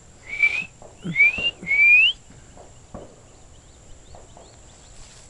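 Unidentified bird whistling: three loud rising whistled notes in quick succession, then a faint run of short rising notes further off.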